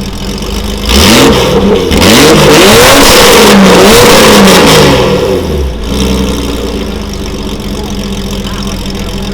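Porsche 993 Carrera's air-cooled flat-six idling, then revved hard in several quick throttle blips, each rising and falling in pitch. It drops back to a steady idle near the middle of the stretch.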